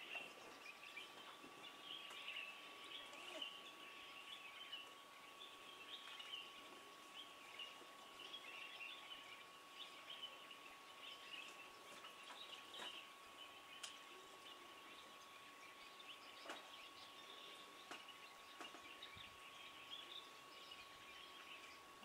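Faint ambience of small birds chirping in the distance, with a thin steady tone underneath and a few soft clicks.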